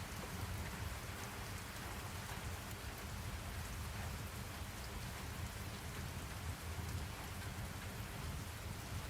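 Steady rain falling, an even hiss of drops with a low rumble underneath and scattered small drop ticks.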